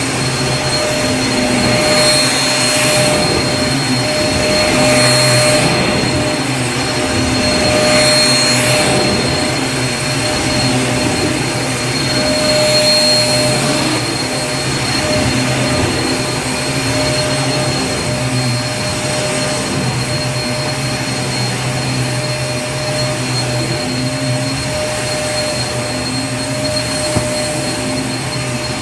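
Vacuum cleaner running continuously: a steady motor hum with a high whine over a rush of air, the airflow swelling and easing several times in the first half.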